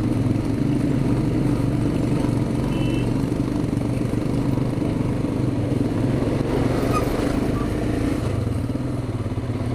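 Royal Enfield Himalayan motorcycle's single-cylinder engine running steadily at even revs.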